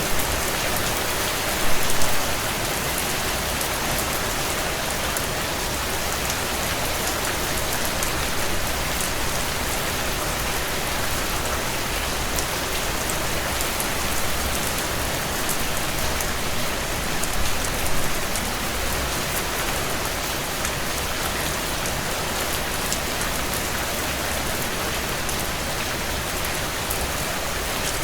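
Heavy rain beating steadily on window panes, mixed with scattered small crackles from a wood fire in a stone fireplace. Two brief louder swells stand out, one about two seconds in and one around eighteen seconds.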